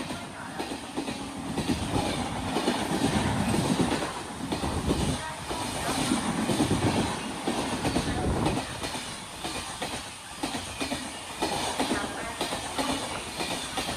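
Express train passing through the station at speed: a continuous rumble with a rapid run of wheel clacks over the rail joints.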